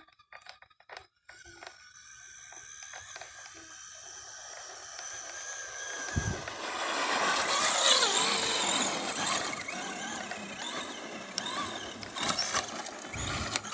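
Electric motor of a Traxxas RC car whining as its pitch rises and falls with the throttle, over the hiss of its tyres on wet ground. The sound grows louder through the first half as the car comes closer, with a brief low thump about six seconds in.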